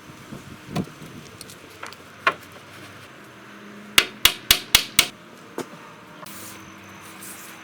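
Hammer nailing a top brace onto a macrocarpa timber compost bin: a few lighter knocks, then five quick blows about halfway through and one more just after.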